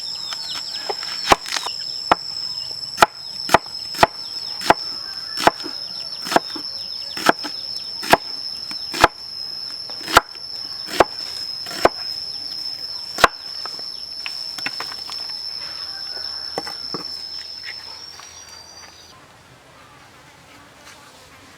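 A knife chops on a wooden board in sharp, evenly spaced strikes, about one a second for the first thirteen seconds, then only a few faint ones. Behind it an insect keeps up a steady high-pitched drone that stops near the end.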